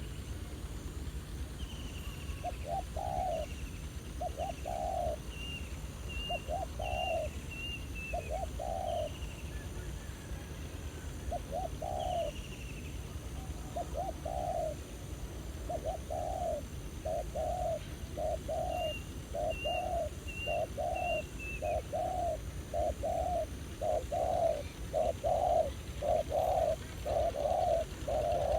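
Spotted doves cooing: short repeated coos, spaced a second or two apart at first, then coming faster and louder in the last several seconds. A small bird chirps in thin high notes a few times in the first half.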